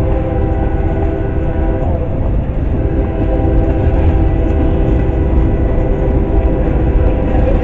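Freight train tank cars rolling past on street-running track: a steady low rumble of steel wheels on rail, with a held chord of tones over it that breaks off briefly about two seconds in, then resumes.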